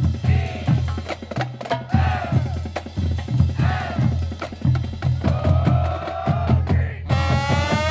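High school marching band's drumline playing a driving groove of bass drums and snares, with short repeated pitched figures over it about every two seconds. Near the end the full brass section comes in with a sustained chord.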